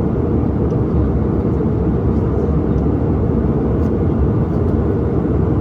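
Steady, loud noise of an airliner in flight heard from inside the passenger cabin: engine and airflow noise, deep and even.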